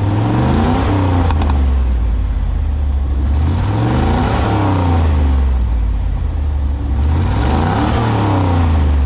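1985 Chevrolet Camaro IROC-Z's 305 V8 (5.0-litre, tuned port injection) revving up and falling back three times, each rise and fall taking about two seconds.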